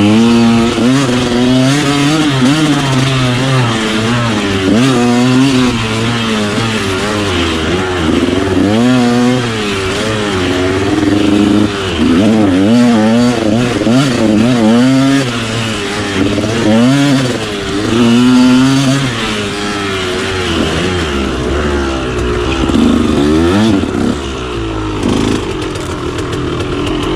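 KTM 125SX two-stroke single-cylinder dirt bike engine riding a tight trail, its pitch constantly rising and falling as the throttle is opened and shut every second or so.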